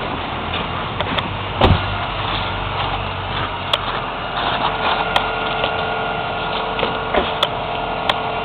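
1994 Toyota Camry's 2.2-litre four-cylinder idling steadily after a cold start, with scattered clicks and knocks as the frozen-shut hood is worked at; the loudest knock comes about two seconds in.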